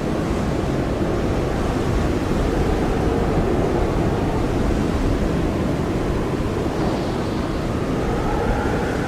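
Blizzard wind blowing steadily as a dense rushing noise, with a faint hollow howl that rises in pitch near the end.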